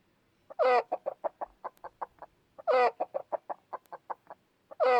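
Hen clucking: a loud squawking call followed by a run of short clucks that grow fainter. It comes about every two seconds, twice in full and a third time starting at the very end.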